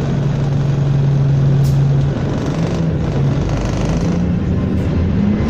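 Airliner departing on takeoff, a loud steady jet engine noise with a low hum that rises in pitch near the end.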